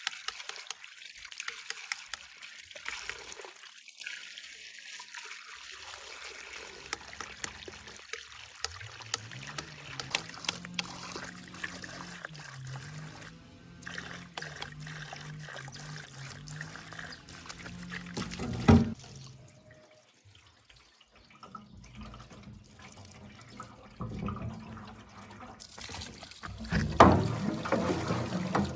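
Water trickling and pouring, with many small splashes. A low wavering hum runs through the middle, and a single sharp knock comes about two-thirds of the way in.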